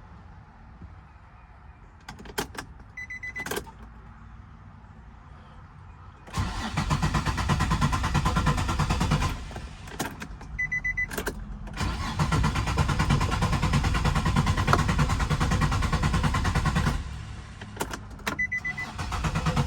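Starter cranking a 2003 Infiniti G35 coupe's 3.5-litre V6 three times without the engine catching, each attempt preceded by key clicks and a short beep. It is a crank-no-start for lack of fuel: the owner first suspects too little gas, then finds the fuel pump is not coming on.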